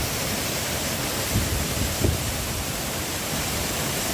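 Waterfall rushing: a steady, even roar of falling water, with a few low thumps, likely wind or handling on the microphone, about a second and a half and two seconds in.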